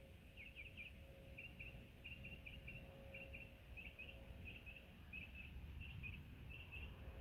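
Faint, rapid high chirps in short clusters, several a second, which the man takes for a red-bellied woodpecker calling in the trees. A faint steady hum and a low rumble lie beneath.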